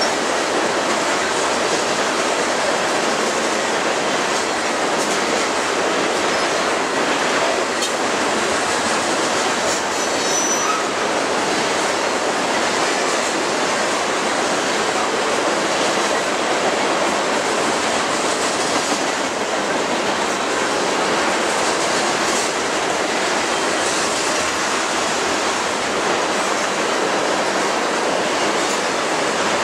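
Oil train tank cars rolling past close by: a steady, even rush of steel wheels on rail, with faint clicks as the wheels pass over rail joints.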